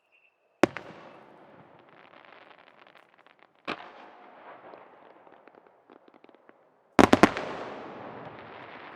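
Fireworks shells bursting: a sharp bang under a second in, another a few seconds later, then a quick volley of three or four loud bangs near the end. Each burst is followed by a crackle that lingers.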